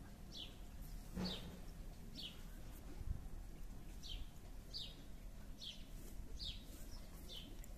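A small bird chirping over and over, a short, high, falling chirp about once a second, with a faint low rumble beneath and a single soft knock about three seconds in.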